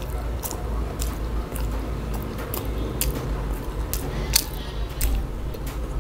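Close-miked chewing of a mouthful of fried chicken burger: soft wet squishing with scattered short clicks and smacks, one sharper click a little past the middle, over a low steady hum.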